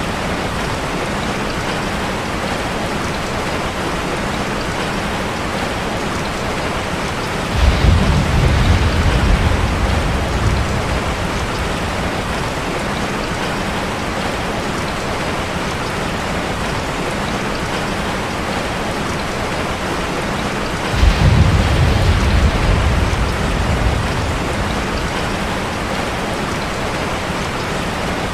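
Steady rain drumming on a metal roof, with two sudden low rumbles of thunder, one about eight seconds in and another about twenty-one seconds in, each dying away over about three seconds.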